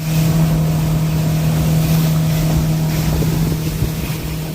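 Motorboat engine running at a steady speed while the boat is under way, a constant low hum under the rush of water, with wind buffeting the microphone.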